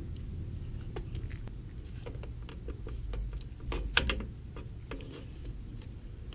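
Scattered light metallic clicks and clinks of drum-brake hardware and hand tools being handled, the loudest a sharp clink about four seconds in, over a steady low hum.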